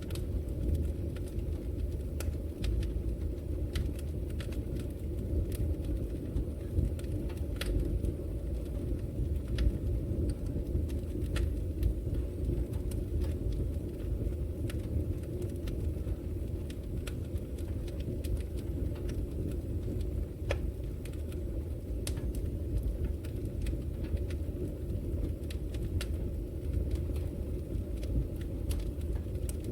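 Wood fire burning in a fireplace: a steady low rumble of flames with sharp crackles and pops scattered irregularly throughout.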